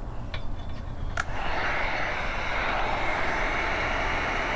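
Heat gun switched on with a click about a second in, then blowing steadily with a rushing roar as it heats shrink tubing over a soldered headphone wire joint.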